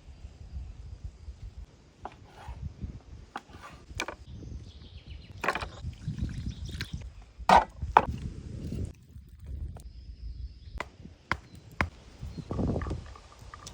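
Irregular wooden knocks and handling sounds of outdoor food preparation, with two sharp knocks about halfway through.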